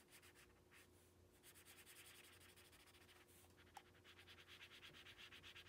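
Faint, quick back-and-forth strokes of a felt-tip marker colouring in on paper, about five strokes a second, in two spells of scribbling: one starting about a second and a half in, the other about four seconds in.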